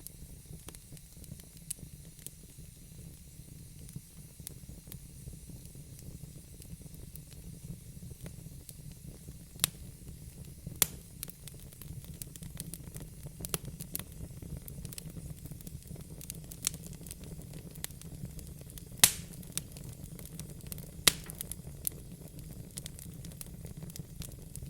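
Wood fire burning in a fireplace: a steady low rumble and hiss of flames with scattered crackles and a few sharp pops, the loudest about two-thirds of the way through.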